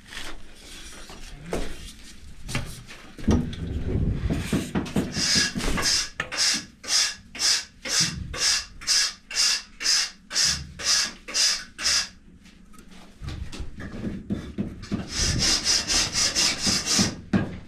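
A hand tool scraping back and forth across a building block in quick, even strokes, about two a second. The strokes start about five seconds in, pause briefly, then pick up again near the end.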